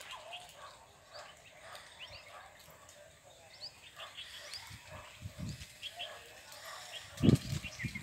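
Birds chirping: scattered short, high, thin chirps. A few low thumps come about seven seconds in.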